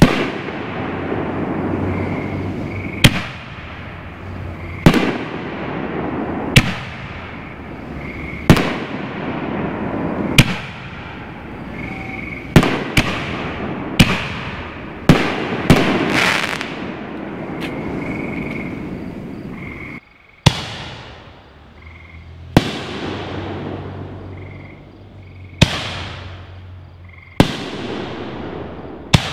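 5-inch canister firework shells going off in sequence: sharp booms every one to three seconds, each trailing off in a long echoing rumble, with several in quick succession around the middle. The sound cuts out briefly about twenty seconds in, then the booms carry on.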